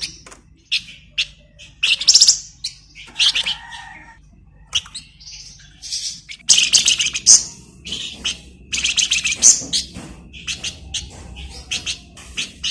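A songbird of the kind Indonesian bird-keepers call 'flamboyan' singing vigorously. Its high-pitched, rapid chattering trills come in short bursts with brief pauses between them.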